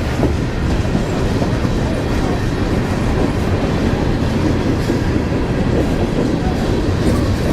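A train rolling past at steady speed, its steel wheels running on the rails.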